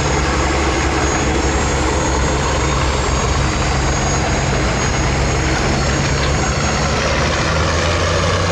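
Modified class pulling tractor's engines running loud and steady, a deep drone with a thin high whine above it.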